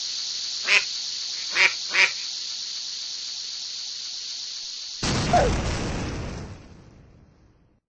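A bird giving three short, harsh, duck-like calls over a steady hiss. About five seconds in the hiss gives way to a low rumbling noise that fades out.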